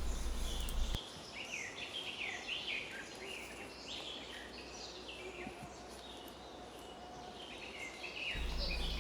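Forest birdsong: many short, high chirps and falling whistles from several small birds over a quiet, steady background hiss.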